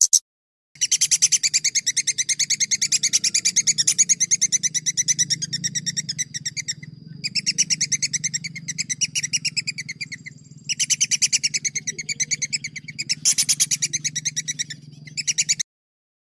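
A songbird singing fast trills: long rolls of rapid, evenly repeated high notes broken by brief pauses, over a low steady hum. The song stops abruptly near the end.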